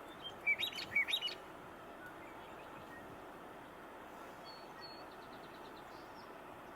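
Western meadowlark singing one short, fluty, gurgling song phrase about half a second in, over a steady outdoor background hiss, with a few faint high notes later on.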